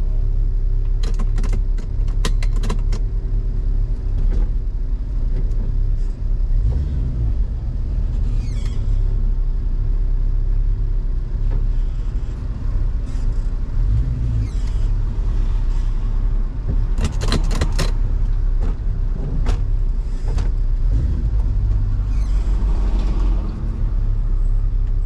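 Car engine idling with a steady deep rumble, with a few sharp clicks and knocks on top.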